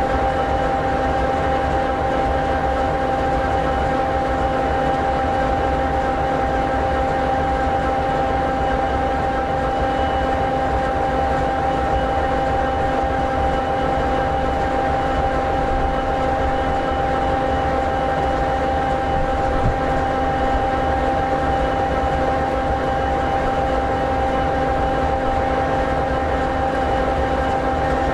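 EMD 16-710G3B sixteen-cylinder two-stroke diesel of an SD60E locomotive idling steadily, an even running sound with several constant tones.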